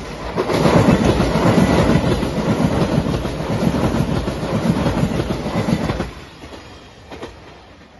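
JR Shikoku 8000 series electric limited express train passing close by at speed, its wheels clattering over the rail joints in a fast rhythm. Loud from about half a second in, it falls away sharply about six seconds in as the last car goes by.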